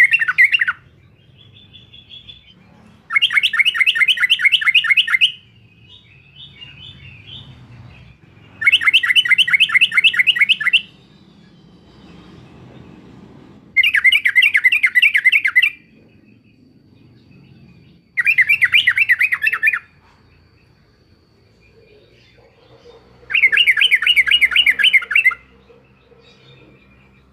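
Yellow-vented bulbul singing its bubbling "uklik-uklik" song: five fast trilled phrases of about two seconds each, a few seconds apart, with soft calls in between.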